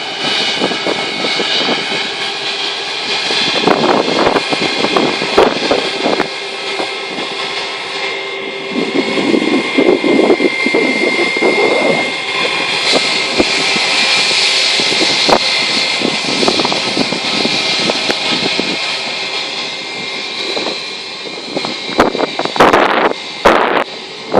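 Jet airliner taking off: its engines running at takeoff thrust, a loud steady rushing noise with a high whine held over it. Short bursts of wind buffeting the microphone come near the end.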